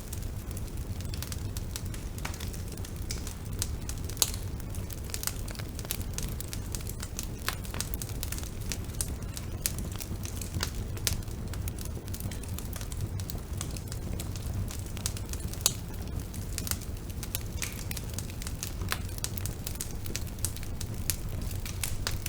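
Wood bonfire burning: irregular sharp crackles and pops from the burning wood over a steady low rumble, with a few louder pops standing out.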